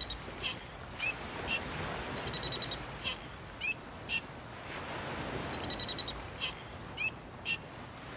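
Bird calls repeating over a steady wash of surf: a quick chattering trill, then three short, sharp calls, and the same pattern comes round about every three seconds.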